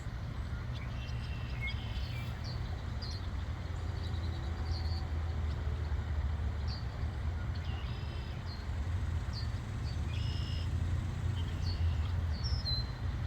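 Birds chirping, short scattered calls, over a steady low rumble.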